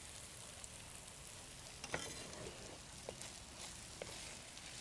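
Noodles frying and sizzling quietly in an oiled pan as they are stirred, with three light knocks about a second apart.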